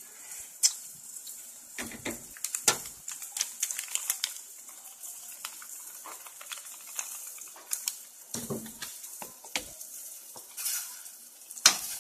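Wasp larvae sizzling in hot oil in an aluminium pot, a steady hiss broken by frequent sharp pops and crackles.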